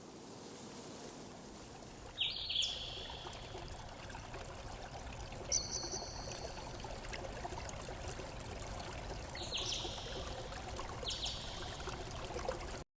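Running water, a steady rush of a stream or falls, with a small bird calling four times in short, high chirps. The sound cuts off suddenly near the end.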